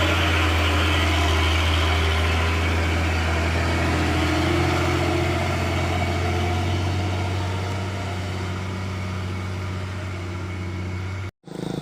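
Hino 500 truck's diesel engine running with a steady low drone, slowly fading after about eight seconds, then cut off abruptly near the end.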